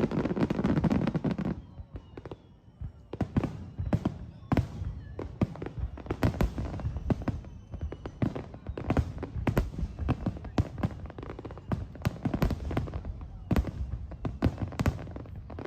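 Fireworks display: a deep shell burst at the very start, then from about three seconds in a dense run of sharp crackling pops from crackle-effect stars.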